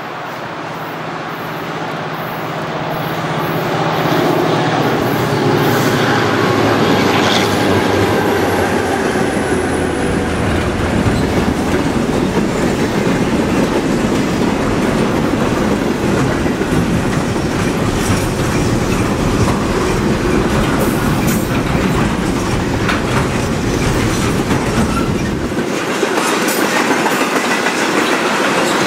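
Container freight train climbing the grade, hauled by two diesel locomotives. Their steady engine note grows louder as they approach and passes in the first few seconds. After that, a long string of loaded container wagons rolls past with the clickety-clack of wheels over rail joints.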